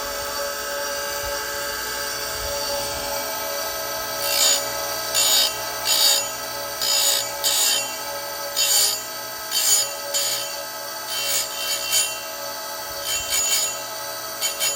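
Oregon 410-120 chain grinder's motor running steadily with a constant hum, and from about four seconds in its CBN wheel takes a dozen or so short grinding swipes at the saw chain's cutters, roughly one a second, each a brief rasping hiss.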